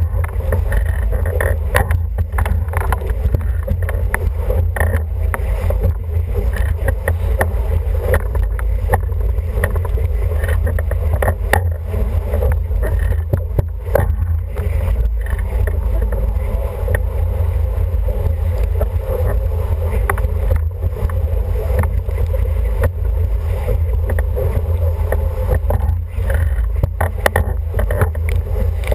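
Wind buffeting the microphone in a steady deep rumble, over water rushing past and slapping against the hull of an International 14 racing dinghy under sail, with many short slaps and knocks throughout.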